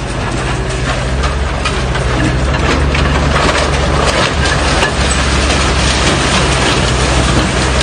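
A heavy machine's engine running steadily with a low hum, under a dense wash of crackling and crunching noise.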